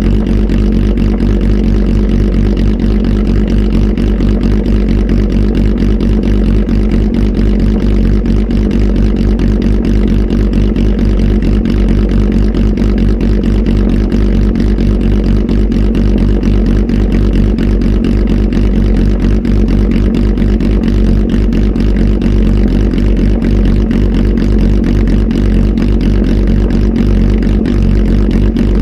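Kawasaki Z H2 SE's supercharged inline-four, flash tuned and breathing through an aftermarket full exhaust, running at a steady idle. The note stays loud and even throughout, with no revs.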